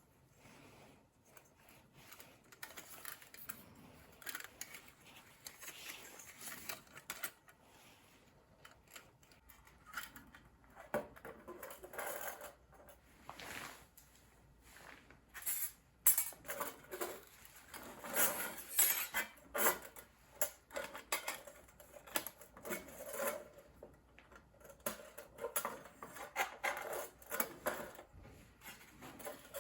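Thin titanium plates of a hinged mini fire stand clinking and clattering as they are handled. The clinks are light and sparse at first, then come thicker and louder from about ten seconds in.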